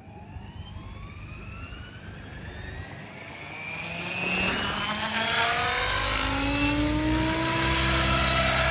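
Tron 7.0 Advance electric RC helicopter with an XNOVA 4525 brushless motor spooling up: a whine that rises in pitch and grows louder over about six seconds, then levels off to a steady tone as the rotor reaches head speed.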